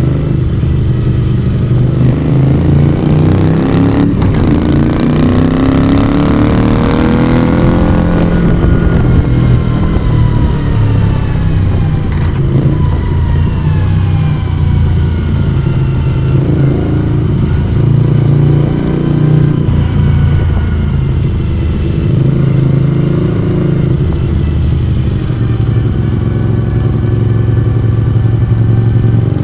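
Moto Guzzi V35 V-twin motorcycle engine and exhaust under way. Revs climb through the first several seconds, with a brief click about four seconds in. Revs then fall away and settle into steady running, rising and easing a little with the throttle.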